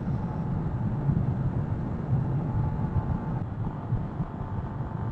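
A 125cc motorcycle cruising on the road: a steady low engine and road rumble mixed with wind noise on the rider's microphone.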